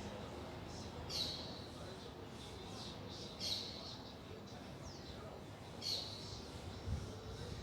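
Small birds chirping: short, high calls that sweep down in pitch, repeating roughly every two seconds with fainter calls between. A soft low bump sounds near the end.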